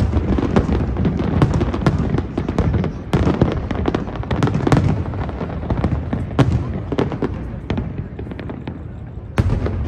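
Aerial fireworks display: a rapid, dense run of shell bursts and crackles, several a second, over a continuous rumble, with a louder bang near the end.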